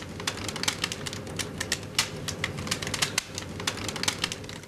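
Rapid, irregular crackling clicks from a rubber balloon made brittle by liquid nitrogen.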